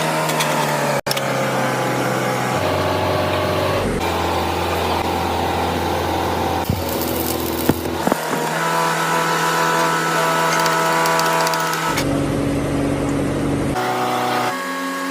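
Machinery running with steady hums, in a string of short clips: the pitch and character change abruptly every few seconds.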